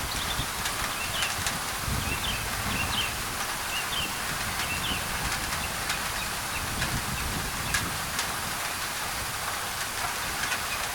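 Steady tropical rain on a thin tin roof, with sharp drops ticking on the metal, mixed with white noise. Birds chirp a few short times in the first half.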